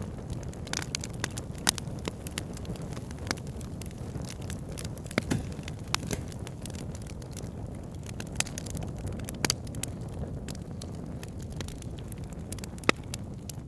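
Wood fire burning in a fireplace: a steady low rumble of flames under irregular sharp crackles and pops, with a few louder snaps scattered through.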